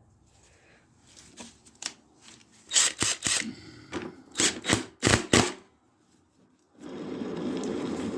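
Short, sharp scraping and clicking strokes, about eight in a cluster in the middle, from hand tools and metal parts of a lawn mower's front axle and wheel being worked by hand. A steady low rushing noise starts near the end.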